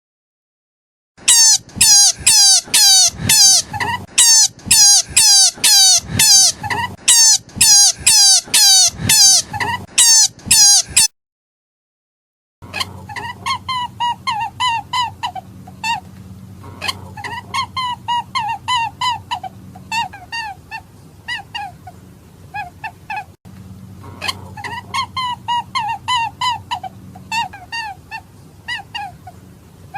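An animal calling over and over, about two short falling cries a second. After a brief gap partway through, the calls go on quieter over a low steady hum.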